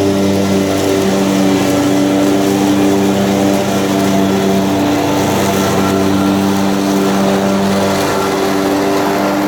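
Zero-turn mower engine running steadily at constant speed, close up.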